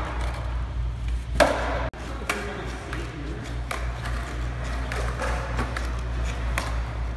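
Skateboard knocks and clacks, the loudest about one and a half seconds in, over a steady low hum.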